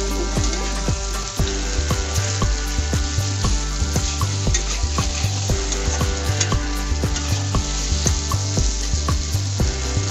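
Sliced vegetables and spices frying in oil in a metal pan, sizzling steadily, while a metal spatula stirs and scrapes against the pan in quick repeated strokes.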